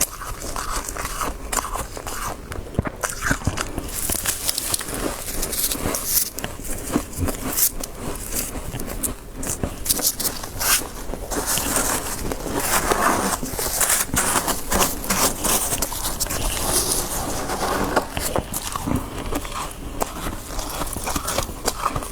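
Close-miked eating of freezer frost: a dense, irregular run of crunches and crackles as the frost is bitten and chewed.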